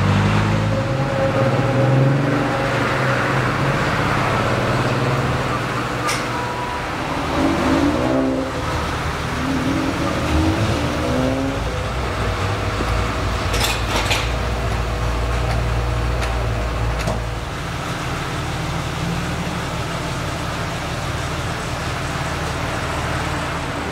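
Audi R8 GT's 5.2-litre V10 idling steadily, a low even rumble, with a few sharp clicks over it.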